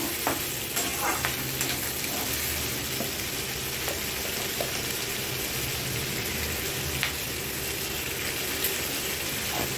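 Onion and capsicum chunks sizzling steadily as they stir-fry in an aluminium kadai, with a few light scrapes and taps of a metal spatula against the pan in the first couple of seconds and once more later.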